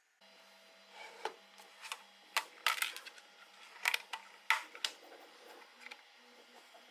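About a dozen irregular sharp clicks and taps of small hard objects being handled, over a faint steady hum. The loudest clicks fall in the middle few seconds.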